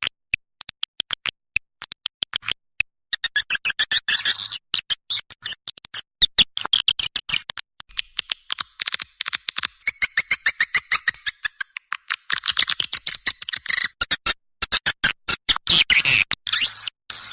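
Swiftlet lure-call recording: fast, dense trains of high chirps and clicks in bursts of a second or two, broken by short gaps, the kind of call played to draw swiftlets into nesting houses.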